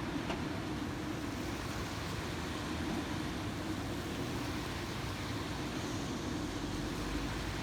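Steady mechanical rumble of construction vehicles' engines running.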